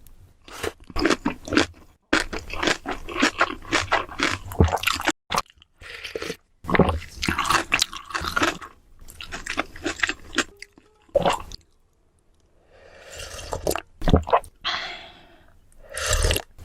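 Close-miked eating: crunchy bites and wet, squishy chewing in quick crackling runs, broken by several sudden pauses.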